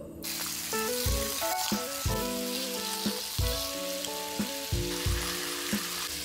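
Chicken pieces frying on a hot griddle pan, a dense sizzle that switches on abruptly a moment after the start and holds steady. Background music with plucked notes plays along.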